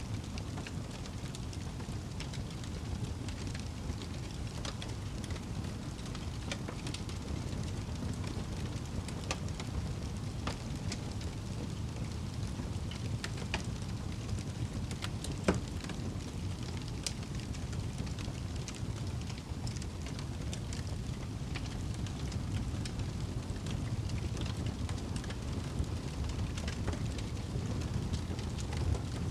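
Wood fire crackling in a fireplace: scattered small pops and snaps over a steady low rumble, with one louder pop about halfway through.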